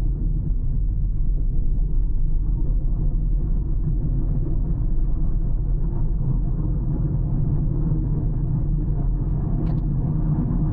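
Car driving along a road: a steady low rumble of tyres and engine, with a brief faint high click near the end.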